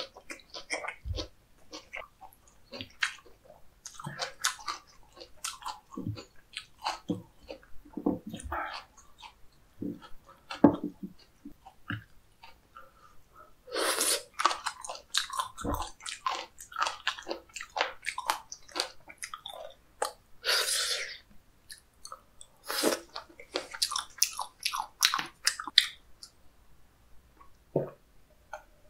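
Close-miked chewing of chewy raw sashimi: a run of irregular wet smacks and squelches, with louder bursts about halfway through as a new mouthful goes in.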